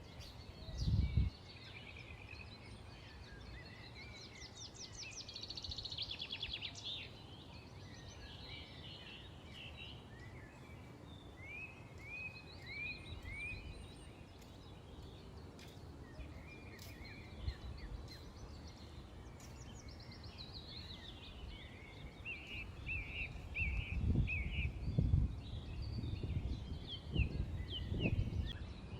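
Several songbirds chirping and calling back and forth, with a quick trill about five seconds in and a string of short downward-sliding chirps in the middle. Low rumbling bursts about a second in and again near the end.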